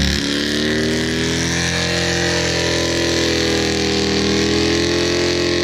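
Car engine held at high, steady revs during a one-wheel peel burnout, with the hiss of a single spinning rear tire. The revs climb slightly in the first second, then hold.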